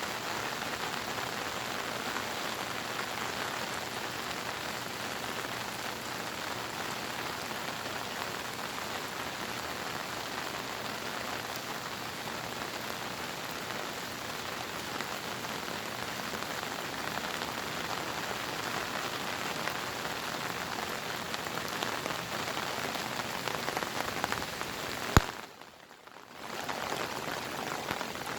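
Steady monsoon rain pouring down. About 25 seconds in there is one sharp click, and the rain sound drops away for about a second before it comes back.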